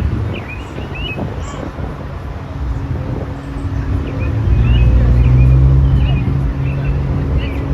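Small birds chirping repeatedly over the low, steady hum of an engine that grows louder about halfway through and eases off near the end.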